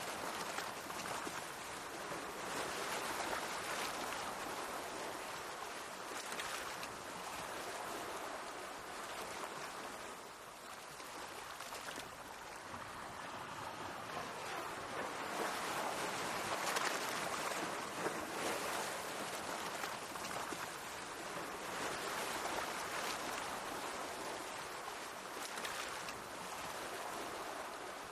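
Mediterranean sea waves washing in, a continuous hiss of water that swells and ebbs in surges every few seconds, easing off about a third of the way through and strongest just past the middle.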